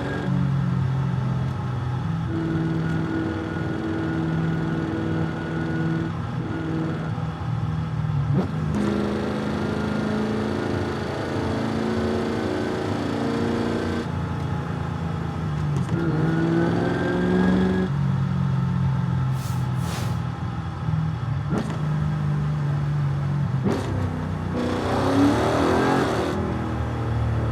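Audi RS4 engine running while the car is driven, its pitch shifting every few seconds with throttle and gear changes, with a rise in revs a little past halfway.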